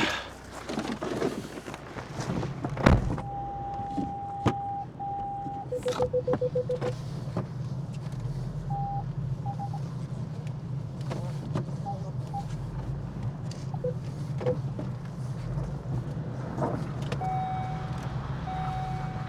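Car engine running with a steady low hum, heard from inside the cabin. Over it come electronic warning beeps: a couple of longer held tones, a quick run of short lower beeps, then more held tones near the end. A single sharp knock comes about three seconds in.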